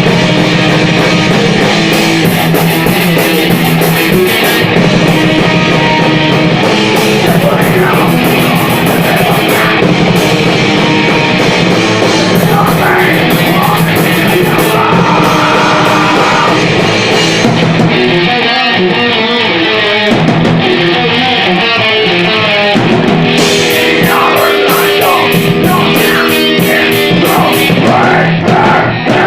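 Rock band playing thrash metal, with distorted electric guitars and a drum kit, loud and unbroken until a few short stops near the end.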